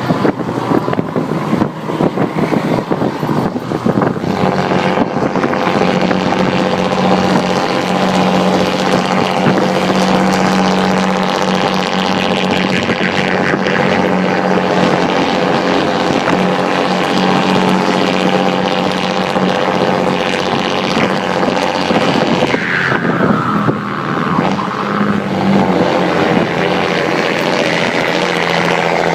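Diesel truck engine with a straight-through stainless exhaust and a comb in the turbo, running under way. It is choppy and crackling for the first few seconds, then settles into a loud, steady drone. About 23 seconds in it briefly dips and changes pitch, then steadies again.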